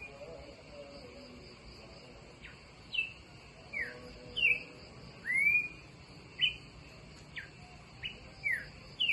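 A bird singing after dark: a series of short, clear whistled notes, most sliding downward, with one longer note that rises and falls about five seconds in, spaced about a second apart. A steady high insect chirring runs underneath.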